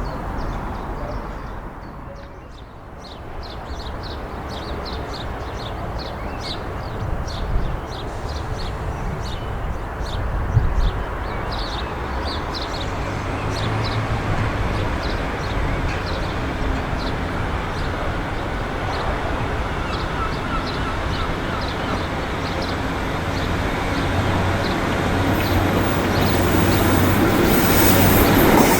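A train drawing near: a low engine drone grows steadily louder toward the end. Over it runs a regular series of short high-pitched chirps, about two a second.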